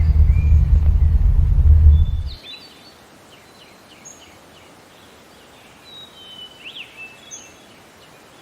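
Birds chirping and calling over a loud low rumble that cuts off suddenly a little over two seconds in. After that it is much quieter, with scattered short high chirps and quick sweeping calls, busiest near the end.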